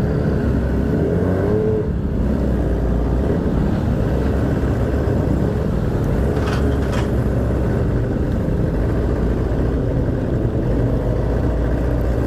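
Sport motorcycle with an Akrapovic megaphone exhaust running steadily as it is ridden.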